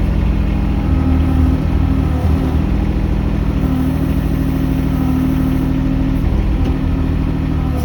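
Mini excavator engine running at a steady speed, an even, unbroken engine drone.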